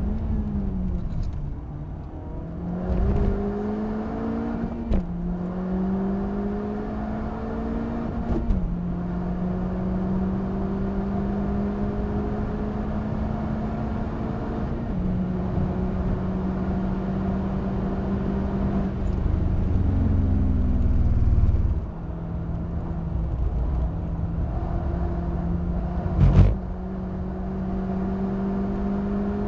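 Honda Civic Type R FK8's turbocharged 2.0-litre four-cylinder engine from inside the cabin, pulling hard through the gears with several upshifts where the pitch steps down and climbs again. About two-thirds through, the pitch falls away as the car brakes and slows, then climbs again, with a sharp thump a few seconds before the end.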